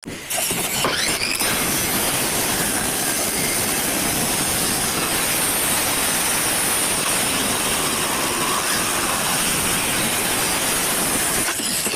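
Electric arc welding: a steady, loud hiss of the arc, running unbroken for about twelve seconds.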